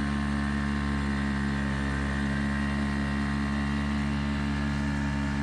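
Dinghy outboard motor running at a steady throttle, a constant low drone with no change in speed.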